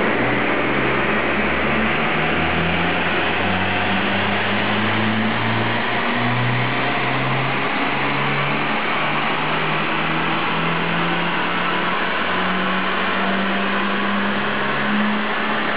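Alfa Romeo MiTo's 1.4 16V T-Jet turbocharged four-cylinder engine at full load on a chassis dynamometer during a power sweep, its revs climbing slowly and steadily, then falling away at the very end as the run finishes.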